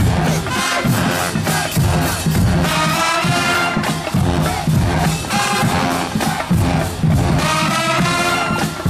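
Marching band playing: brass in short, repeated phrases over heavy drums, with crowd noise underneath.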